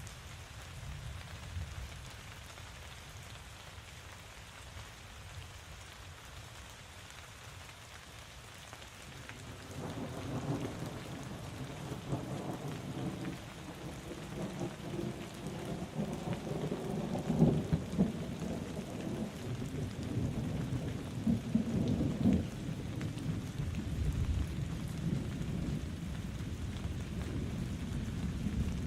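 Steady rain, with thunder rolling in about a third of the way through: a long low rumble that swells and peaks twice before settling into a continuing rumble under the rain.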